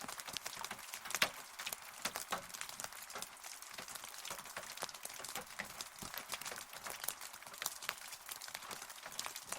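Rain falling steadily, with a dense patter of individual drops tapping close by over a constant hiss.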